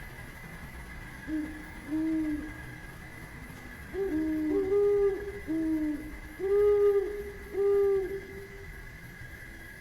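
A bird giving a series of low hooting calls, about seven notes at two slightly different pitches, some overlapping. A faint steady high-pitched drone runs underneath.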